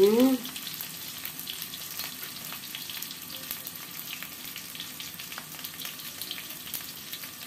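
Sliced onion, shallot and lemongrass sizzling in hot oil in a wok, with occasional light scrapes of a spatula stirring them.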